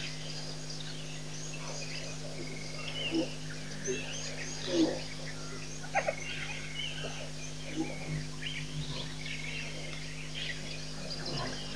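Wild birds chirping and trilling, many short calls overlapping, over a steady low hum.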